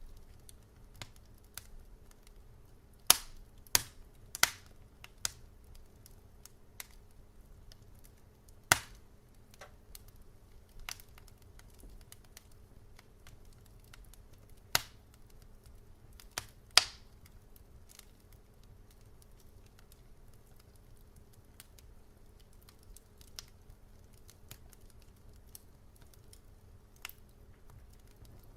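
Wood fire in a fireplace crackling: sharp, scattered pops and snaps over a low steady hum, with a cluster of loud pops in the first half and only small ticks in the last ten seconds.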